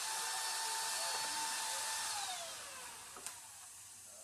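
Chainsaw running at full throttle with a steady high whine, then let off about two seconds in, its pitch falling as it slows toward idle. A single sharp click comes just after three seconds.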